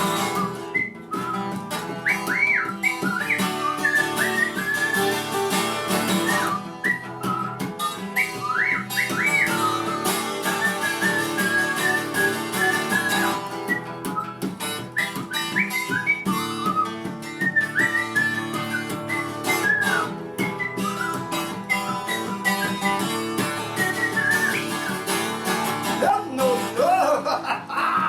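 A person whistling a melody over acoustic guitar accompaniment, the whistled notes sliding up and down between phrases.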